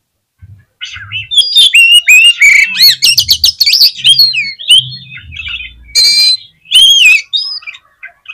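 Oriental magpie-robin (kacer) singing a loud, fast, varied song of whistles and quick rising and falling chirps, starting about a second in.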